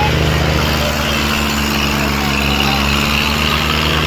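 Diesel tractor engine running steadily, with an even low pulsing beat.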